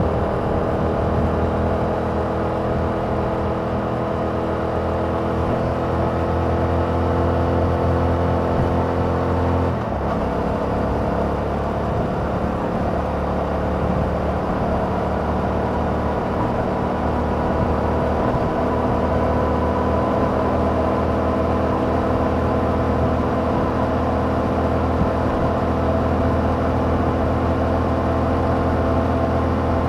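Yamaha MT-07's 689 cc parallel-twin engine through its stock exhaust, heard from the bike while riding. The engine note changes abruptly about ten seconds in, then its pitch climbs slowly as the bike pulls.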